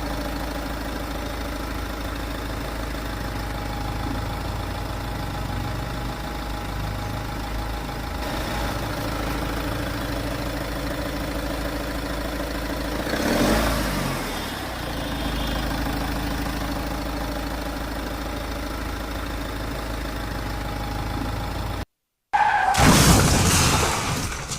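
A vehicle engine runs steadily, swelling briefly in loudness about halfway through. Near the end it cuts off abruptly, and a louder, different burst of sound follows.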